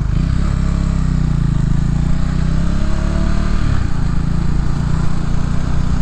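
Motorcycle engine running at low revs while the bike rolls down a steep hill off the throttle, over a steady rushing hiss; the engine note shifts briefly a little under four seconds in.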